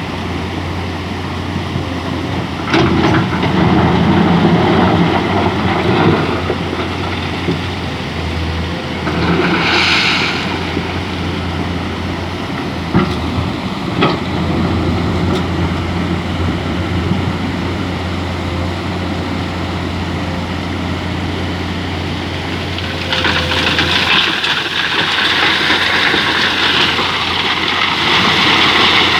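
Excavator's diesel engine running steadily while it dredges sand, with water and wet sand sloshing and splashing around the bucket. There are a couple of sharp knocks about halfway, and a louder rushing of water near the end.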